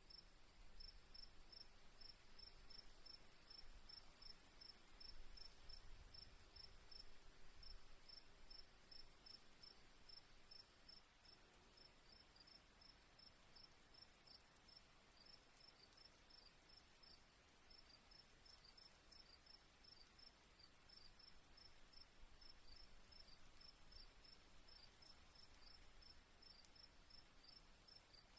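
Faint chorus of crickets: quick, evenly repeated chirps over a steady high-pitched insect trill that breaks off briefly partway through.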